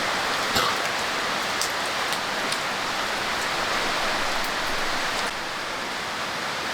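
Steady heavy rain falling, with a few sharper drop hits standing out in the first half.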